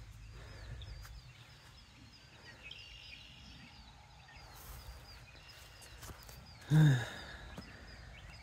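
Outdoor ambience with a small bird repeating a short high chirp two or three times a second, and a man's voice breaking in briefly about seven seconds in.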